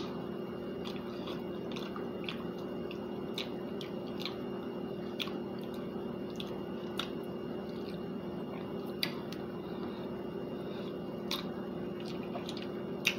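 Close-up chewing and biting on chicken wings, with about a dozen short, sharp wet mouth clicks and smacks scattered irregularly through it. A steady low hum runs underneath.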